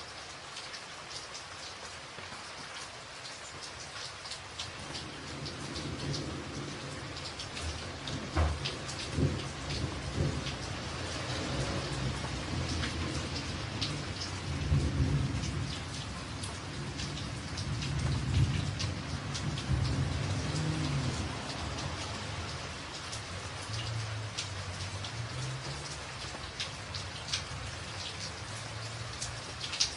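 Rain pattering on a tin roof, with sharp ticks of single drops through the steady hiss. About five seconds in, a long low roll of thunder builds, swells through the middle and fades out near the end.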